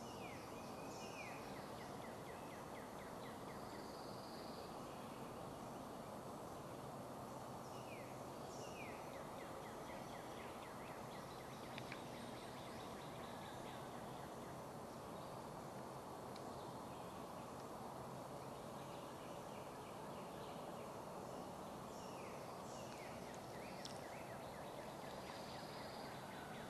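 A bird calling in short falling notes, each followed by a quick rattling trill, in bouts near the start, about eight seconds in and about twenty-three seconds in, over a steady outdoor background noise.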